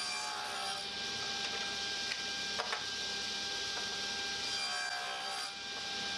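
Power tool working wood: a steady whirring hiss with a faint constant tone, and a couple of light clicks midway.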